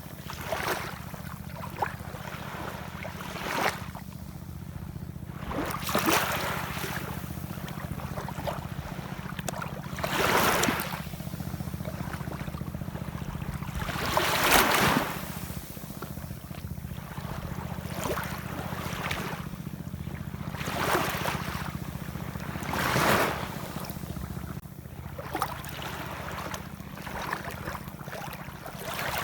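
Ocean waves washing in, swelling and fading every few seconds over a steady low rumble, with the biggest wash about halfway through.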